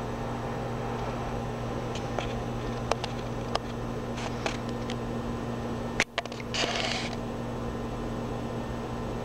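Steady electrical hum under room tone, with scattered faint clicks; a sharper click about six seconds in is followed by a brief rustle.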